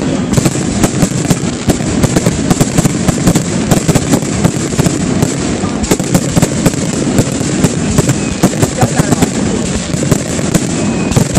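Aerial fireworks display: shells bursting in a rapid, unbroken barrage of bangs and crackles, several reports a second.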